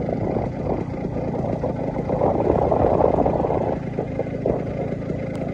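Paramotor engine idling during a gliding descent, mixed with a steady, uneven rush of wind over the microphone.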